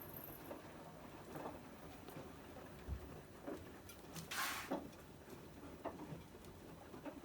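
Privileg 804 washing machine running quietly, with scattered soft knocks and clicks and a brief hiss about four and a half seconds in.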